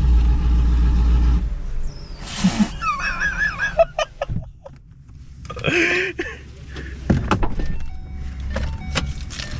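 A car's engine rumbles loudly with a deep, steady note and drops away after about a second and a half. Then comes a short burst of noise, a brief warbling tone, and scattered knocks and shouts of a busy crowd of cars and people.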